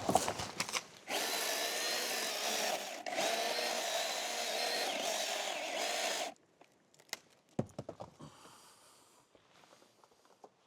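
Battery-powered power tool motor run at full speed for about five seconds, with a brief let-off partway through, then stopping abruptly instead of idling. A few knocks come just before it starts.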